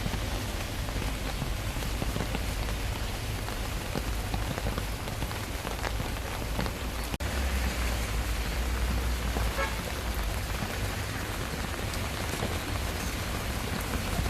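Steady rain falling on a surface, an even hiss of drops with a continuous low rumble underneath. The sound drops out for an instant about seven seconds in.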